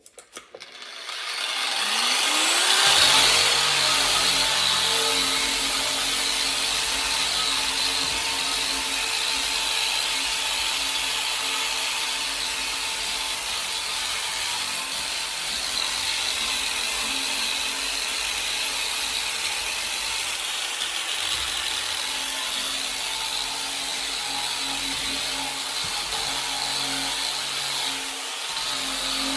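Electric power tool motor spinning up about a second in, rising in pitch, then running steadily, typical of sanding or wire-brushing bicycle frame parts.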